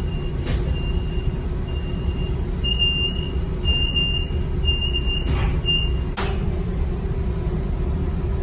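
A vehicle's high-pitched warning beeper sounding about once a second for roughly six seconds, then stopping, over a large diesel engine idling with a steady low rumble. A few sharp clicks, the last as the beeping stops.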